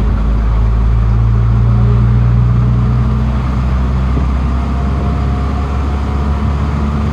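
Motor vehicle driving, heard from inside: a steady low engine and road rumble that swells slightly in the first few seconds.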